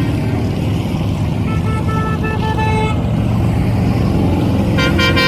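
Steady low rumble of a pack of motorcycle engines running, with vehicle horns honking twice: a honk of about a second and a half starting about a second and a half in, and another near the end.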